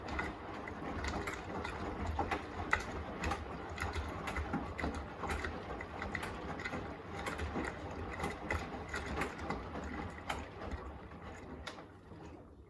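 Beko WTK104121A washing machine drum turning its load, with a low motor hum and many small clicks and knocks from the laundry tumbling. The drum starts, runs for about twelve seconds, then slows and stops near the end.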